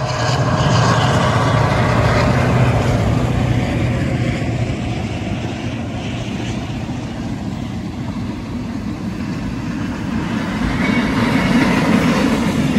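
Diesel-hauled train passing close by: the locomotives' engine rumble is strongest in the first few seconds, then the hauled cars roll past with steady wheel and rail noise, which grows louder again near the end as the last wagons go by.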